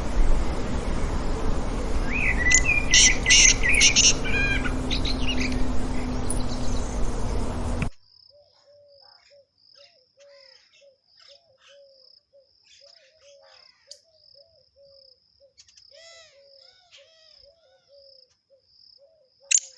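Outdoor nature ambience: birds chirping over a noisy, rumbling background. About eight seconds in it cuts abruptly to a much quieter scene, with a steady pulsing high insect-like trill and short, repeated low calls.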